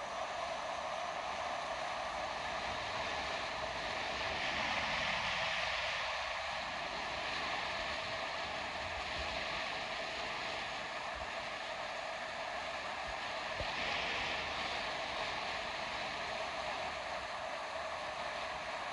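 River water rushing and splashing over stones in a steady wash, swelling a little about five seconds in and again near the end.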